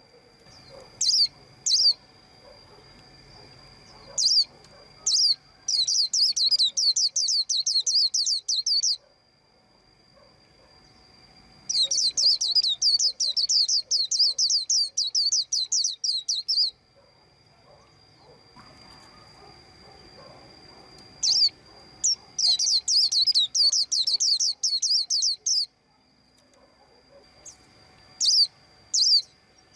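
White-eye chirping: scattered single high chirps and three runs of rapid high chirps lasting several seconds each, about seven notes a second.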